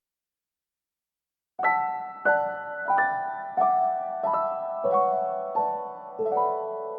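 Background piano music: silence for about the first second and a half, then single piano notes struck about every two-thirds of a second, each ringing on as the next sounds, stepping downward overall.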